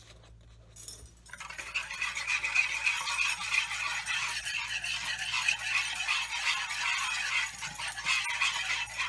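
Butter, brown sugar and cream caramel sauce sizzling and bubbling in a hot fry pan. The steady hiss starts suddenly about a second in, when more cream goes into the hot mixture.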